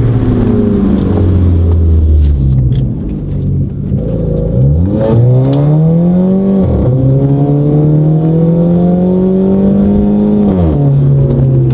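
Turbocharged Audi A4 with a catless downpipe accelerating hard. The engine note climbs steeply about four seconds in, dips sharply at a gear change about halfway, climbs steadily again, then falls as the throttle is lifted near the end.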